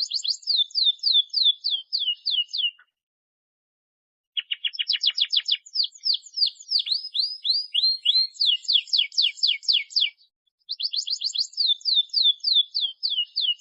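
Domestic canary singing: fast trills of repeated downward-sweeping high notes, in three phrases, with a pause about 3 s in and a shorter one about 10 s in.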